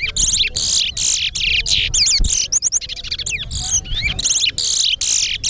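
Towa-towa (chestnut-bellied seed finch) singing a rapid, unbroken run of sweeping, warbling high notes, in a competition where each song is counted.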